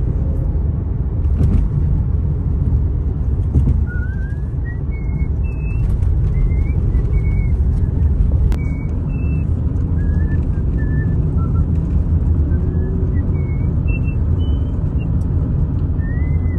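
Steady low road and engine rumble heard inside a moving car. From about four seconds in, a string of short, high whistled notes, each sliding up a little, comes and goes over it.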